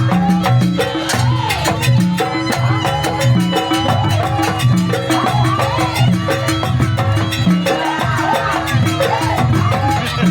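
Live Banyuwangi jaranan gamelan music in a fast sampak, with drums and gongs keeping a quick, even beat and a wavering melody line above them.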